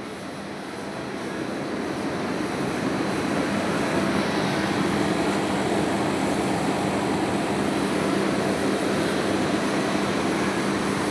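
Window air conditioner running: a steady hum of fan and motor that grows louder over the first few seconds, then holds steady.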